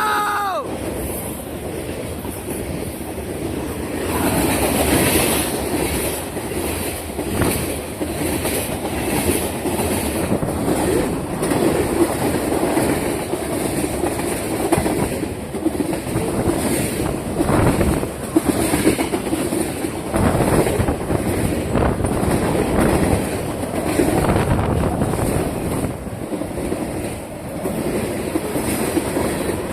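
Freight train cars of a mixed freight rolling past, their wheels clacking in a steady repeating rhythm over a continuous rumble.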